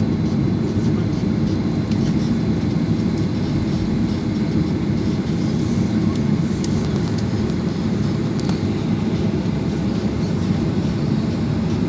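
Steady low rumble inside the cabin of a Boeing 737-800, its engines running as the aircraft taxis for departure.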